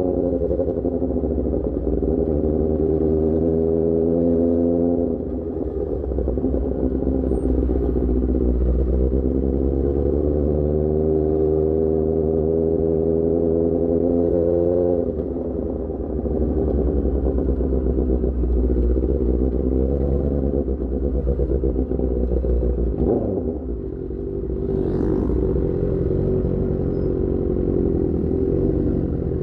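Superbike engine through an Austin Racing GP1R exhaust, heard from the rider's seat, pulling with a slowly rising pitch. The rider eases off about five seconds in and again about fifteen seconds in, there is a brief dip with a short blip a few seconds before the end, and then the engine runs steadily.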